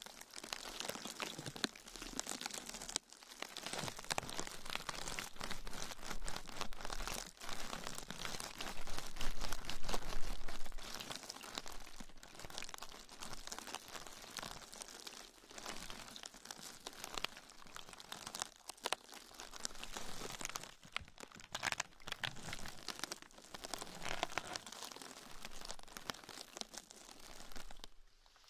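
ASMR trigger sounds: a dense, continuous run of small crinkles and crackles that grows loudest about a third of the way through.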